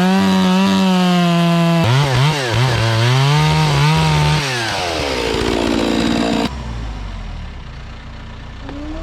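Two-stroke chainsaw running loud at full throttle, its pitch dipping and rising several times under load as it cuts oak, then winding down about halfway through. A lower, duller engine rumble follows, rising in pitch near the end.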